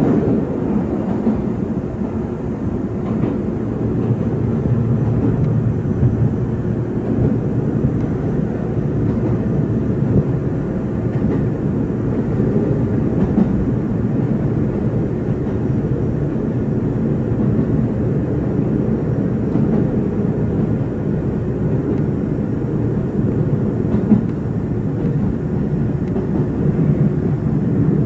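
Izuhakone Railway 5000 series electric train heard from inside the car while running between stations: a steady rumble of wheels on rail, with one sharper knock about three-quarters of the way through.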